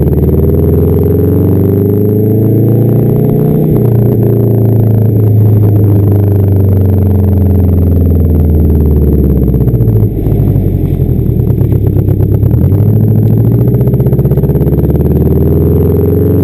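1992 Subaru Legacy's flat-four engine through a straight-pipe exhaust, loud and rising and falling in pitch under throttle. About ten seconds in the level drops suddenly and the exhaust runs uneven and choppy. It picks up again a few seconds later.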